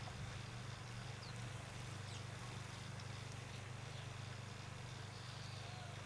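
A few faint, short chirps from small birds at the feeders, over a steady low hum.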